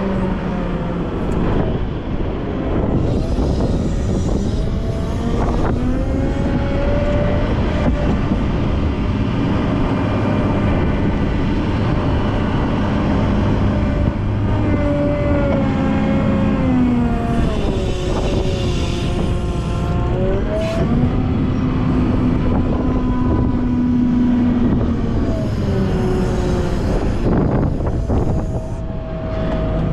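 Volvo L90F wheel loader's diesel engine working continuously while clearing snow, its pitch rising and falling every few seconds as the revs change.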